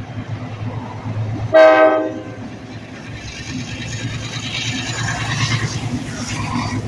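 Diesel freight locomotive rumbling as it approaches and passes underneath, with one short horn blast about a second and a half in, the loudest sound. Then the freight cars roll past with a steady rushing hiss of wheels on rail.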